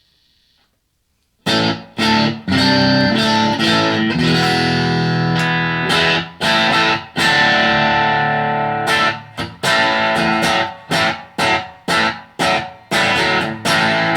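Electric guitar through a Blackstar ID:Core 40 amp on its crunch voice, with mildly overdriven strummed chords starting about a second and a half in. Toward the end the strums turn into short, choppy stabs.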